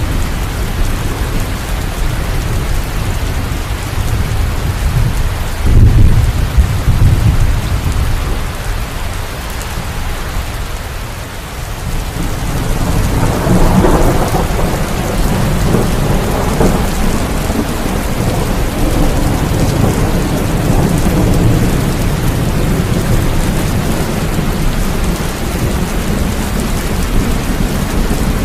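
Thunderstorm: steady heavy rain with rolling thunder, a loud low rumble about six seconds in and a longer roll starting about halfway through that fades out slowly.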